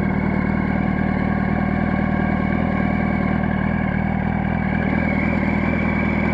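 Yamaha R1 inline-four motorcycle engine idling steadily.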